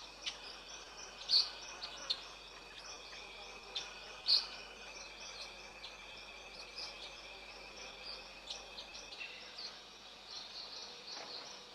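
Tropical forest ambience: a steady high buzz of insects with scattered short, high bird chirps, two louder ones about a second and four seconds in.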